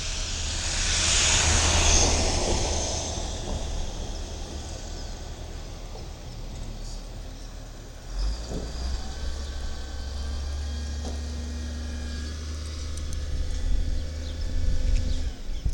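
Cat 3126 diesel engine of a Peterbilt 320 front-loader garbage truck running with a low rumble, which gets louder about eight seconds in. A loud rushing hiss sounds over the first few seconds.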